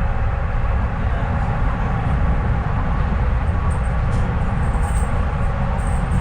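Docklands Light Railway train running between stations, heard from inside the carriage: a steady low rumble of wheels on the track with faint steady tones above it.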